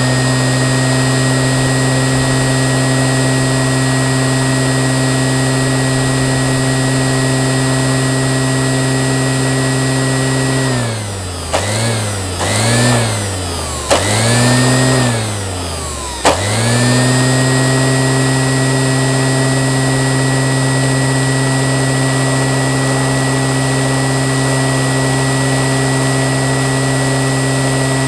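Rebuilt Qualcast electric motor running at a steady high speed with a whine. About eleven seconds in it is cut off and switched back on a few times, slowing down and speeding up again three times, each restart with a click, then it runs steadily at full speed again.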